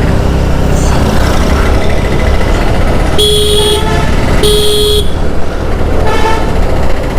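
Two short honks of a vehicle horn, about a second apart, over the steady low rumble of road traffic and engine noise.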